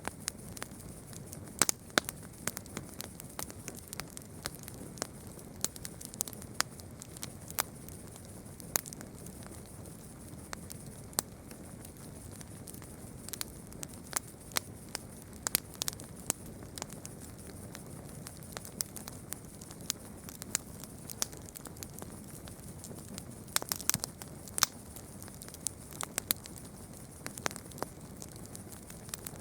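Campfire burning: wood crackling and popping in irregular sharp snaps over a steady low hiss of the flames, with a quick run of pops near the end.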